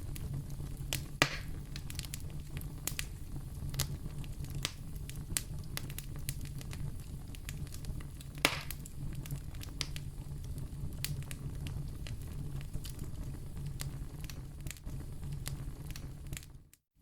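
Wood fire crackling in a fireplace: a steady low rumble of flame under many quick, sharp pops, two of them louder, about a second in and about halfway. The sound cuts out briefly near the end.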